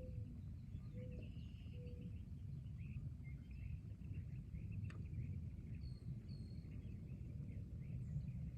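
Forest ambience: several birds chirping and calling over a steady low rumble, with a few short low whistled notes in the first two seconds and a single sharp click about five seconds in.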